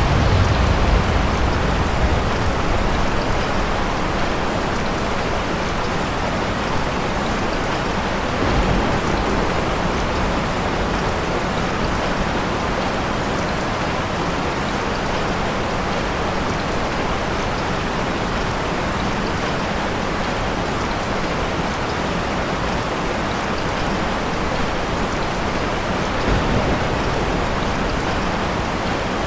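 Steady, heavy rain falling. Low thunder rumbles swell in near the start, again about a third of the way in, and faintly near the end.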